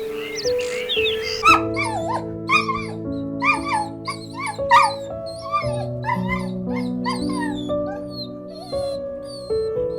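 Soft background music with long held notes, with a small animal's high-pitched whining or peeping calls repeated about twice a second from about a second and a half in.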